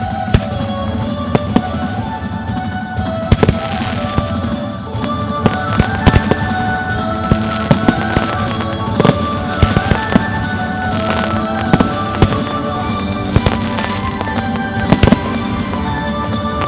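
Fireworks going off in a display: many sharp bangs at irregular intervals, sometimes several a second, with music playing along underneath.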